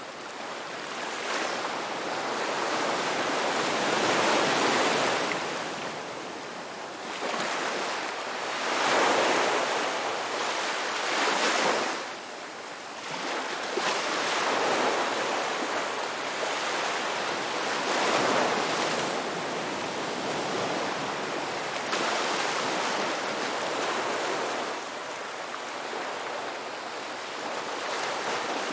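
Sea waves breaking and washing on a shore, a steady rush that swells and ebbs with each wave, about five or six surges.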